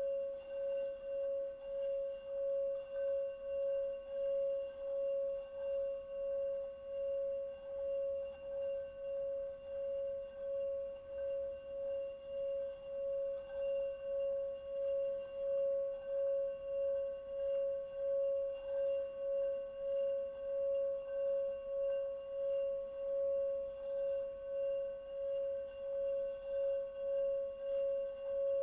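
Singing bowl sung continuously, a single steady ringing tone with fainter higher overtones, wavering in loudness in a regular pulse about once or twice a second.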